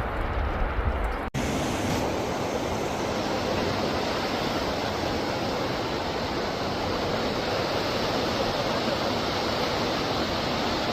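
Steady rushing of flowing river water. A low rumble sounds for the first second or so, then breaks off at a sudden cut.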